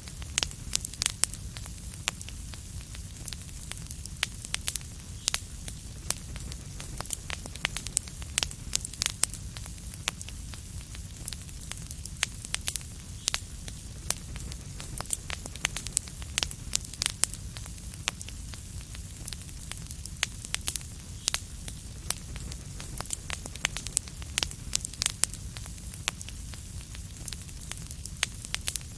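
Wood fire in a fireplace crackling, with many sharp, irregular pops over a steady low rumble and soft hiss.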